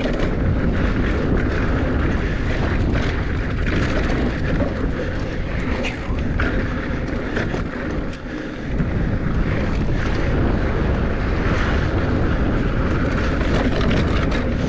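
Wind rushing over the microphone and mountain-bike tyres rolling fast over hard-packed dirt and rock, with the bike rattling and knocking over bumps. The noise drops briefly about eight seconds in, then picks up again.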